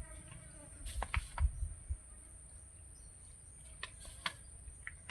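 Steady high-pitched insect drone, with a few dull thumps about a second in and scattered sharp clicks later.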